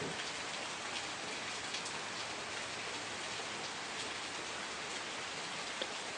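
Steady rain falling, an even hiss with scattered individual drops ticking on surfaces, one sharper drop near the end.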